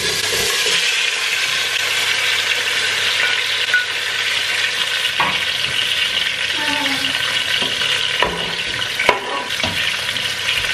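Roasted beetroot frying in hot oil in a saucepan: a loud, steady sizzle, with a few short knocks against the pan in the second half.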